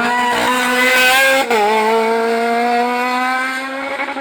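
Competition car's engine revving hard under acceleration: the engine note climbs, drops sharply with a gearshift about a second and a half in, then climbs again.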